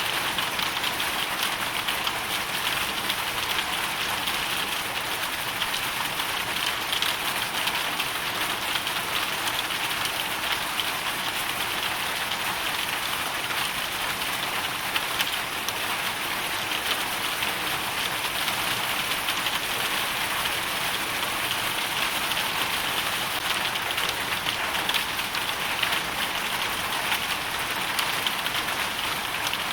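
Hailstones and rain pattering densely and steadily on hard surfaces.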